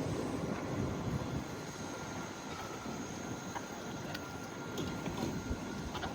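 Steady outdoor street ambience dominated by the rumble of passing road traffic, with a faint steady whine and a few small clicks.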